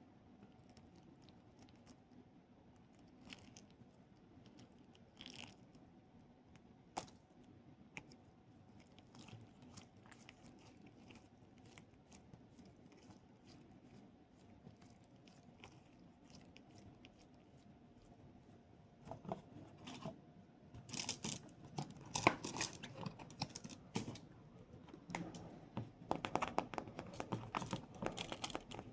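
Close-miked handling sounds: a few soft clicks, then from about two-thirds of the way in a dense run of crinkling, crunching noises, as of a toy or its plastic packaging being squeezed and handled.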